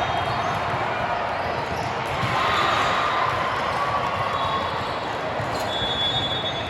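Gymnasium game sound: a ball bouncing on the court over a steady hubbub of crowd and players.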